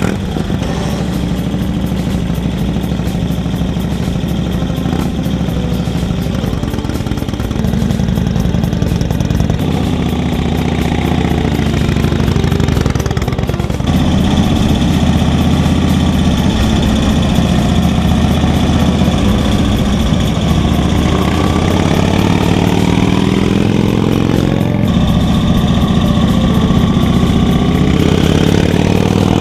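2010 Indian Chief's V-twin engine running at idle, with the throttle opened several times so the pitch rises and falls. Near the end comes a longer, higher rev.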